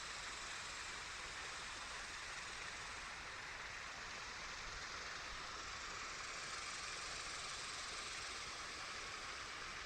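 Creek water running steadily over a small spill into a pool, an even hiss.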